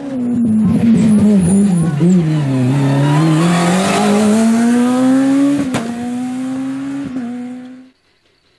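Renault Clio Super 1600 rally car's high-revving 1.6-litre four-cylinder engine running hard, its pitch wavering and dipping, then climbing steadily, with one sharp crack a little after halfway. The sound cuts off suddenly about a second before the end.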